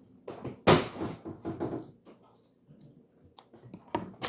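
Kitchen handling noises: one sharp knock about a second in, then a second of softer clattering, and a couple of faint clicks near the end.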